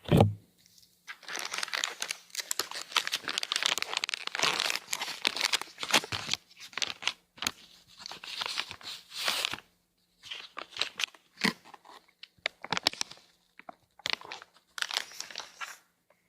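Close-up crinkling and crumpling of something crinkly, like packaging, handled right at the microphone as an ASMR trigger. It comes in irregular crackly bursts with short pauses.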